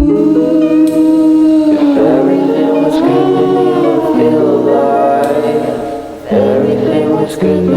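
A choir singing slow, sustained chords in several parts, with a short break about six seconds in.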